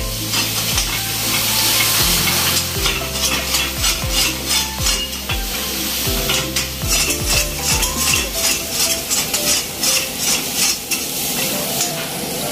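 Chicken and onions frying hard in a wok over a high gas flame: steady sizzling, with repeated scrapes and clinks of a ladle stirring against the wok.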